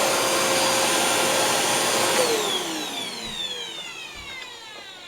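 Dirt Devil Power Max Rewind upright vacuum running steadily, then switched off a little over two seconds in, its motor whine falling in pitch and fading as it spins down.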